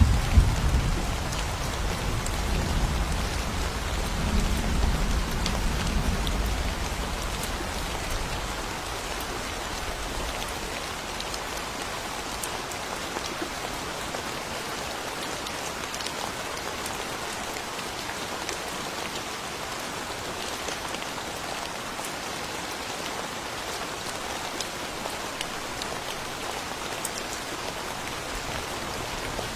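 Steady heavy rain, with the low rumble of thunder dying away over the first several seconds.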